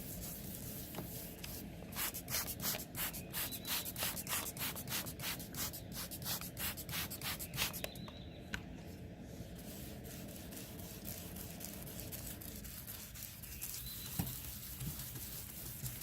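Wet sanding of an oxidized plastic headlight lens with a sanding pad: rhythmic back-and-forth scratching strokes, about three a second, starting about two seconds in and stopping about eight seconds in.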